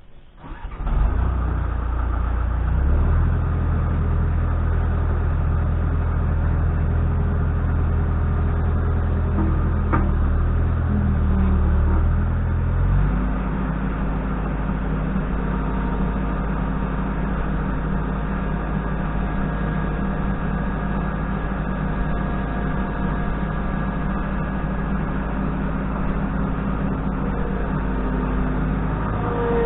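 An engine starts about a second in and runs steadily, with a low, even hum. About 13 seconds in its speed drops and it settles into a steady idle.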